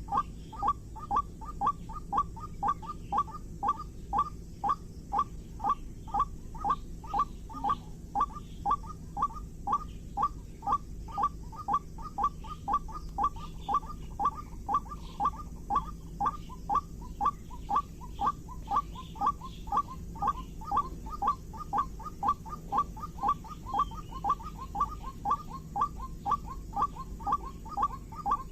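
White-breasted waterhen (ruak-ruak) call: one short downward-curving note repeated steadily, about two to three times a second and without a break, over a low background hum.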